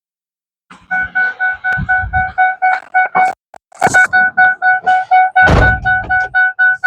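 Electronic alarm beeping rapidly, about four beeps a second on one steady pitch, pausing briefly a little past the middle, with a couple of dull thuds.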